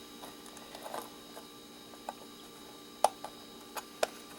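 A few light, scattered clicks and ticks of a knife tip working at the tri-wing screws of an electric tea kettle, the sharpest click about three seconds in.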